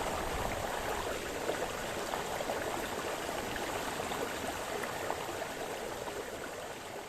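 Brook splashing and babbling, a steady dense rush of flowing water with many small splashes. It begins to fade out in the last second or two.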